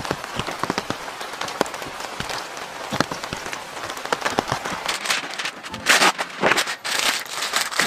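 Rain falling steadily, with many separate drops ticking on surfaces. About six seconds in, louder crackly rustling as a sheet of parchment paper is pulled from its box.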